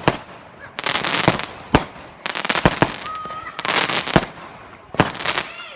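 Celtic 'Storm' firework firing repeatedly: hissing stretches of half a second to a second, broken by about seven sharp bangs spread through the few seconds.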